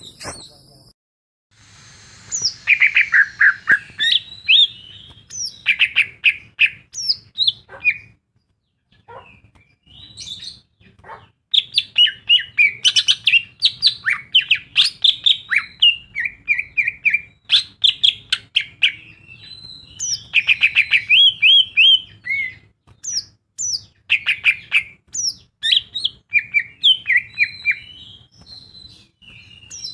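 Greater green leafbird (cucak ijo) singing a fast, varied song of chirps, trills and short rising and falling whistles, packed with phrases mimicked from other birds, pausing briefly now and then.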